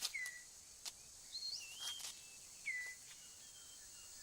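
Tropical rainforest ambience: short whistled bird calls, two of them dropping and settling into a brief held note and others warbling higher, over a steady high insect hiss, with a few sharp clicks.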